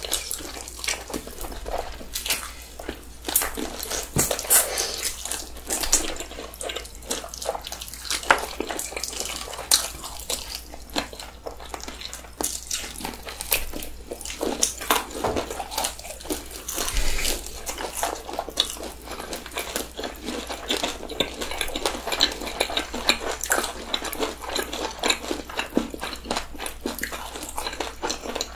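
Close-miked eating of Bburinkle cheese-powder fried chicken by two people: crunchy bites into the coating and wet chewing, a continuous stream of crackles, clicks and mouth smacks.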